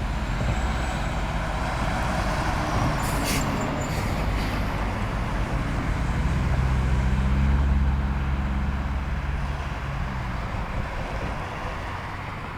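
Motor vehicle engine running over road noise, swelling louder a little past the middle and then fading off, with a few faint clicks early on.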